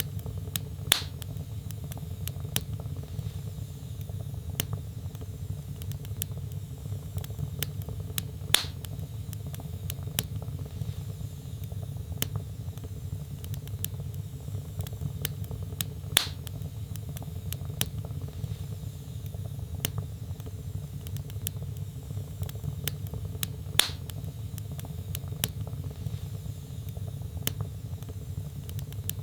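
Wood fire in a fireplace crackling over a steady low rumble of flames, with many small snaps and four louder pops at even intervals, about seven and a half seconds apart.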